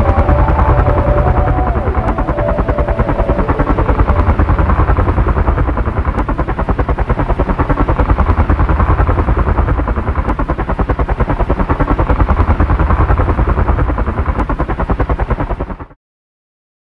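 The small battery-powered motor and propeller of a homemade RC helicopter running steadily, with a fast flutter and a heavy low rumble. It cuts off suddenly near the end.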